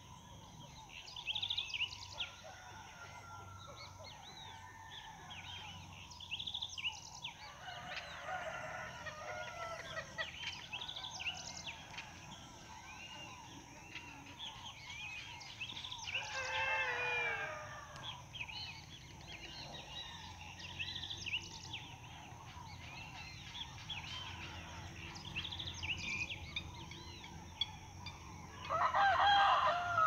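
Birds calling: a louder call of about two seconds comes three times, near a quarter of the way in, about half way and at the very end, over steady repeated short high chirping.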